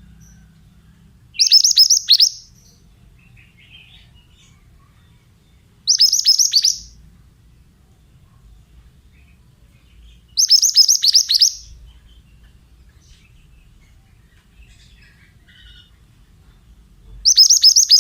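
Pied bushchat (mantenan) singing: four short bursts of song, each about a second of quick, high notes, a few seconds apart.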